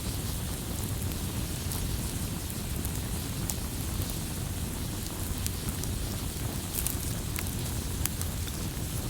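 Campfire burning with a steady low rush and irregular sharp crackles and pops scattered throughout.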